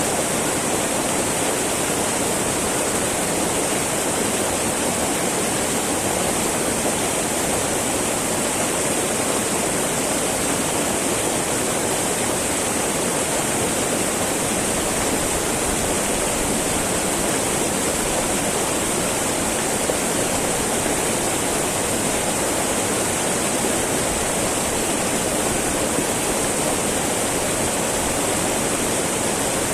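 Small mountain river flowing and babbling over rocks, a steady rush of water.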